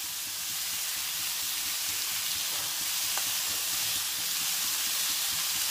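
Beef, green pepper and vegetables sizzling steadily in a hot wok, a continuous hiss that grows a little louder, with one faint click about three seconds in.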